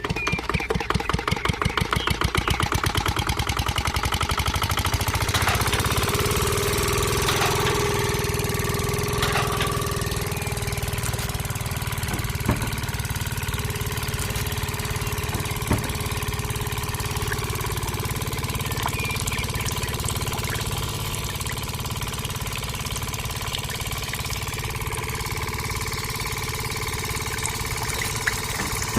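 Small motor of a miniature DIY tractor-powered machine running steadily. It chugs with a fast even pulse for the first few seconds, then settles into a smoother hum with a steady whine. A few sharp clicks come through later on.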